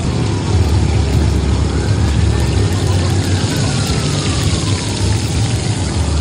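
Oil sizzling under garnachas frying on a flat-top griddle, over a steady low rumble. A siren wails from about two seconds in, its pitch rising slowly and then falling.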